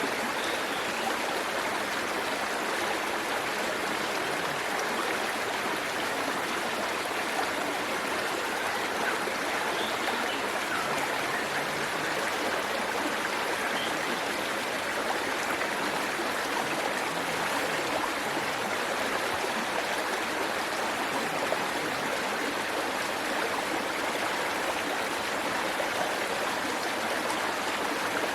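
Waterfall and stream water pouring and splashing steadily over rocks.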